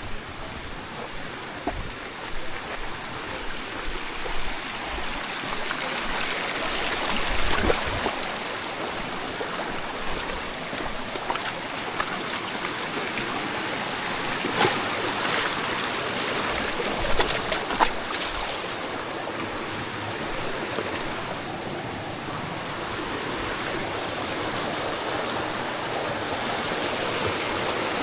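Steady rushing water of a creek or waterfall, with a few short sharp knocks over it near the middle.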